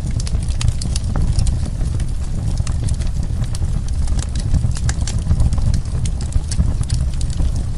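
Wood fire burning in a fireplace, with many irregular sharp crackles and pops over a steady low rumble of the flames.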